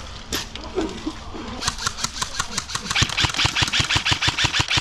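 M4-style airsoft electric rifle firing on full auto: a rapid, even rattle of shots at about a dozen a second, starting a little under two seconds in, after a single shot near the start.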